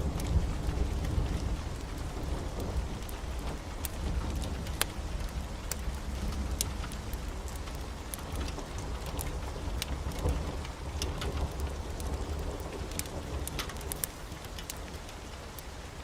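Steady heavy rain with a low rumble of thunder that slowly fades away, and scattered sharp crackles throughout.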